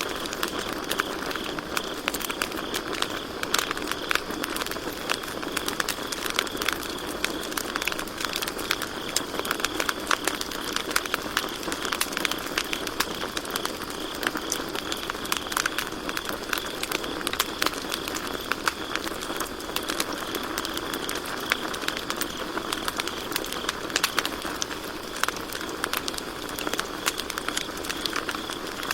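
Campfire crackling, with frequent sharp pops and snaps over a steady hiss of burning wood. Crickets chirp continuously in a steady high-pitched band behind it.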